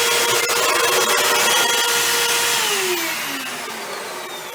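Hoover vacuum cleaner running with a steady motor whine, then switched off about two and a half seconds in, its whine falling in pitch and fading as the motor spins down.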